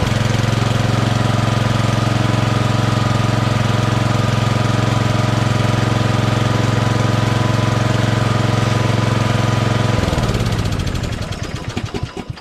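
Craftsman LT2000 lawn tractor's engine running at a steady speed, now that it has fuel in the tank. About ten seconds in it is shut off and spins down to a stop, its pitch falling.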